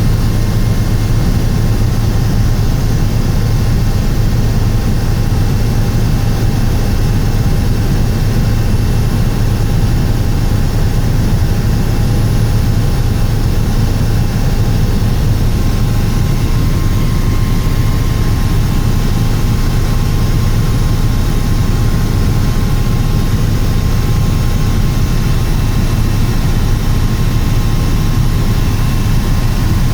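Helicopter in flight: a steady, loud engine and rotor drone with a strong low hum and faint, thin whining tones above it, unchanging throughout.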